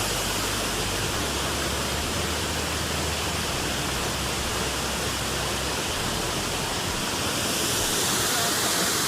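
Waterfall rushing: a steady, even wash of falling water heard close up.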